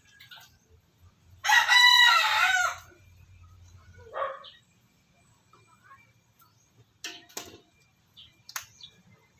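A rooster crowing once, a loud call of about a second and a half, followed by a shorter, fainter call.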